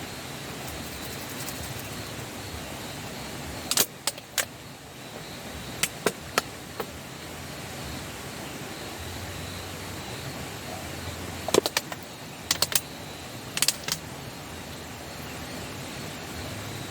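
A few sharp clicks and clinks, some in quick pairs, in two clusters about four and twelve seconds in, over a steady rushing noise.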